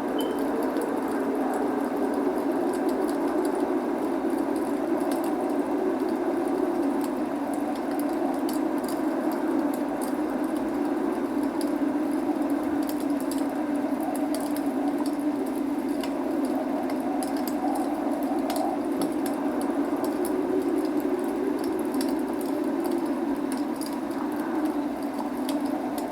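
Log fire crackling with many small sharp pops, over a steady rushing rain.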